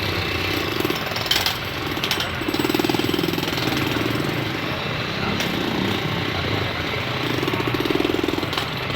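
Powered hammering tool at work on railway track repair: a rapid pounding that comes in spells of about a second, with a few sharp clanks in between.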